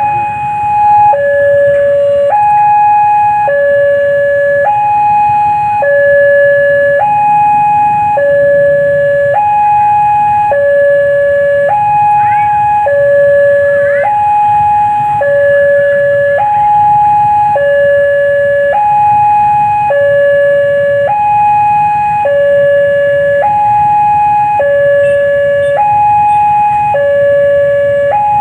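Railway level-crossing warning signal sounding: an electronic two-tone alarm alternating between a high and a low tone, each held about a second, repeating steadily as the crossing closes for a train.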